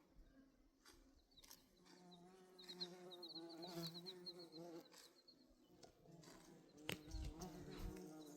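Faint buzzing of a flying insect near the microphone, its hum wavering in pitch, in two spells: one about two seconds in and another near the end. Midway there is a quick run of faint high chirps.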